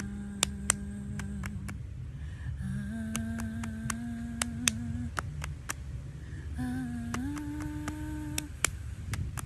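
A woman humming three long held notes, each a little higher than the last, with sharp clicks scattered through and a low rumble underneath.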